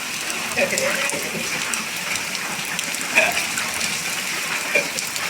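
Steady rain falling, an even hiss throughout, with a few short faint voice-like calls over it.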